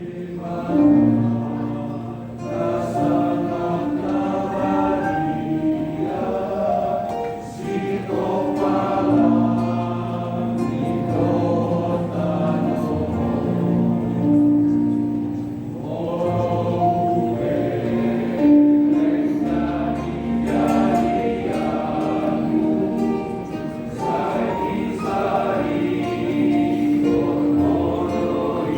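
A vocal group singing a Christmas song in harmony over instrumental accompaniment, with held notes and a steady bass line.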